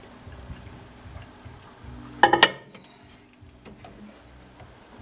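A bowl set down in a microwave oven, with one short clattering clink a little over two seconds in, amid faint handling noise.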